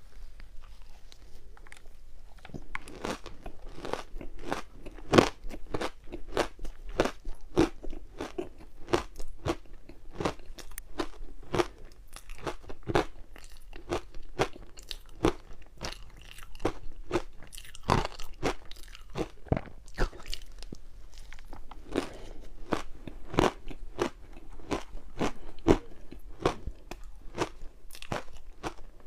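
Close-up crunching of purple ice being bitten and chewed, with sharp cracking crunches coming several times a second from about two seconds in.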